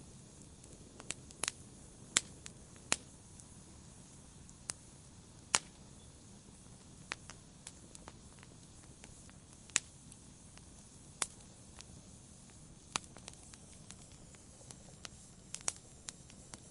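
Wood fire in a fireplace crackling: sharp, irregular pops and snaps over a soft steady hiss of flames.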